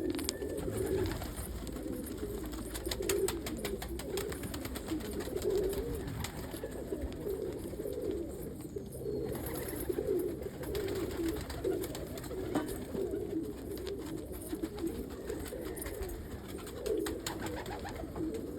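A flock of domestic pigeons cooing, with overlapping coos running on throughout and scattered light taps of beaks pecking at crushed bread crust.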